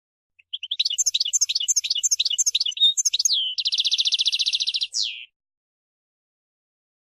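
European goldfinch singing one phrase of song: a quick run of twittering notes sliding downward in pitch, then a fast buzzy rattle of about a second, ending on a single falling note.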